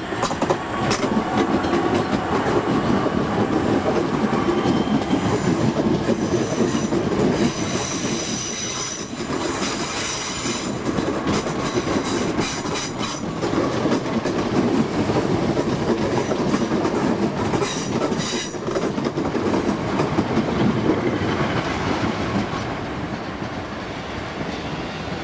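Networker electric multiple unit running past close by, its wheels clattering over the rail joints. A faint high wheel squeal comes in partway through, and the noise eases near the end.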